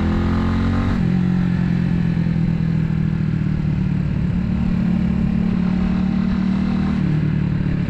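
Italika 250Z motorcycle engine under way: revs rise, and about a second in the pitch breaks to a steady cruising drone, consistent with an upshift. It eases slightly near the end.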